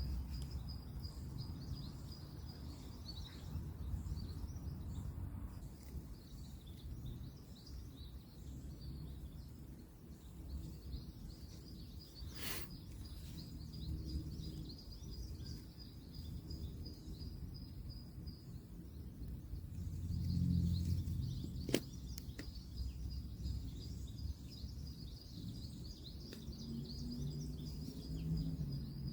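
Outdoor ambience: a steady low rumble of distant road traffic under a continuous high, pulsing chirping, with two sharp clicks, about twelve and twenty-two seconds in.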